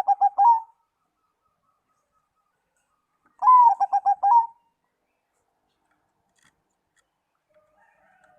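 Zebra dove (perkutut) cooing: a phrase of one drawn-out note followed by a quick run of short staccato coos, at the start and again about three and a half seconds in. Faint softer calls come in near the end.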